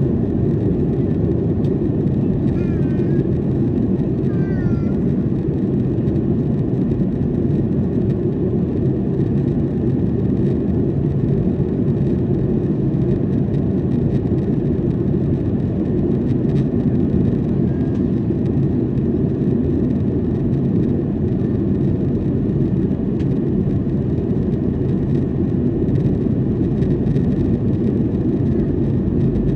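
Steady low cabin roar inside a Boeing 737-800 airliner in flight, from its CFM56 turbofan engines and the airflow over the fuselage.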